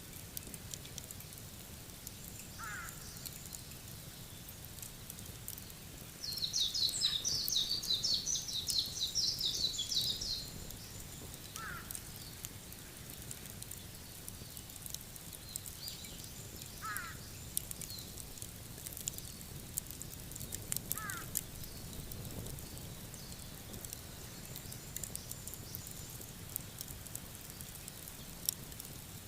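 Lakeside evening ambience. A songbird gives one rapid, high trilling song lasting about four seconds, the loudest sound here. Four short lower calls are spread across the rest, and faint campfire crackles sound over a low steady rumble.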